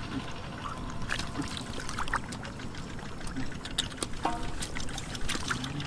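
Shallow water trickling and splashing in small, irregular splashes and drips.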